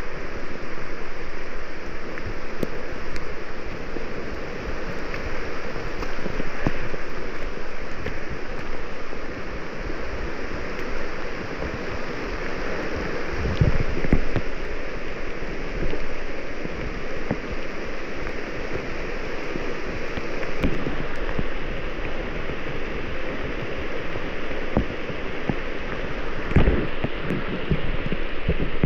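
Steady rainfall on the rainforest, an even hiss, with a few low thumps of wind or handling on the microphone.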